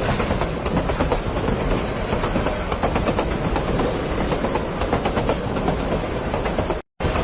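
A train running along the track with a steady rumble and clatter of wheels on the rails. The sound breaks off abruptly near the end.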